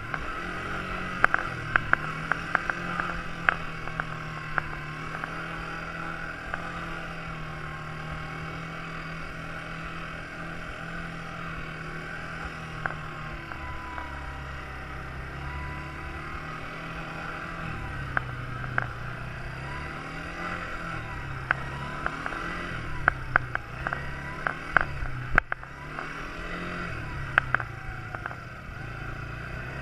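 Quad bike engine running, its pitch steady at first and then falling and rising again and again as the throttle changes through the second half. Sharp knocks and rattles come in clusters near the start and again after about twenty-three seconds.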